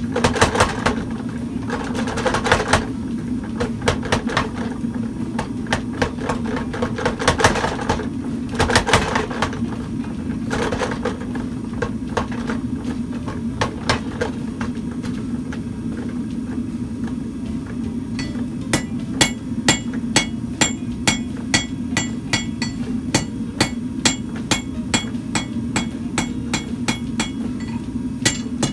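Power hammer running over a steady motor hum and pounding hot steel in rapid bursts of blows. Late on, the strikes settle into evenly spaced, ringing blows about three a second.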